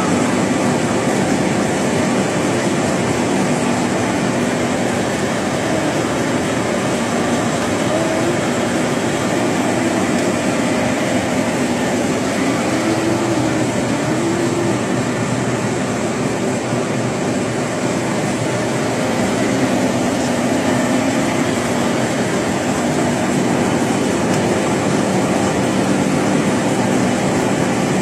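Steady, loud mechanical running noise from a vehicle, an even rumble and hiss that does not change.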